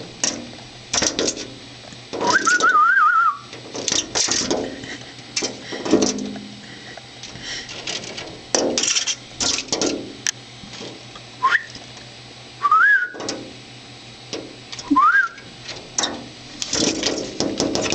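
A small bird repeatedly pecking and fluttering against window glass: a long run of sharp, irregular taps and knocks. A few short rising whistles come between them, one warbling note about two seconds in and three more later on.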